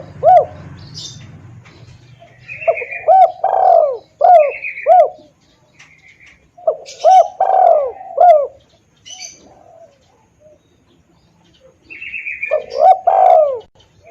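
Spotted dove (tekukur) cooing, played as a lure call: a short phrase of rolling, arching coos repeated three times, about five seconds apart. Faint high chirps fall between the phrases.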